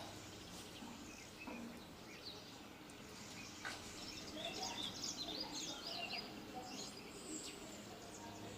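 Small birds chirping, with a quick flurry of high chirps in the middle, over a steady low background hum.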